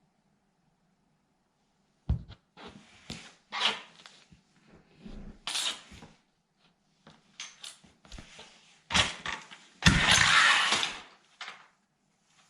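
Plastic toy military truck cracking and crunching under a sandal sole in a series of irregular snaps and grinding crunches, starting about two seconds in and loudest in a long crunch near the end.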